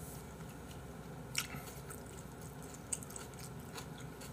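Faint chewing and mouth sounds of a person eating, with a few light clicks of a metal spoon against a metal bowl as he scoops fried rice.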